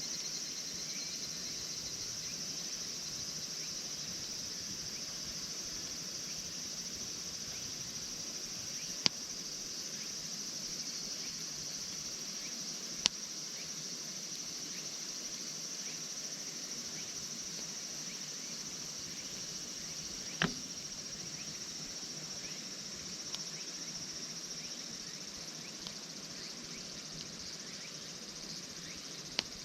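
Steady high chirring of crickets and other night insects, with a few sharp pops from a wood campfire, the loudest about nine and thirteen seconds in.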